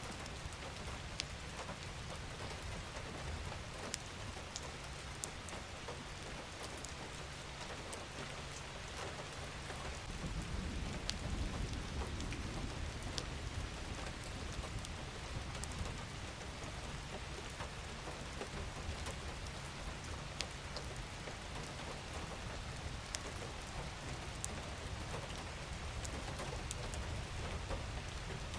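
Gentle rain falling steadily, with scattered single drops ticking distinctly. A low rumble swells for a few seconds about ten seconds in.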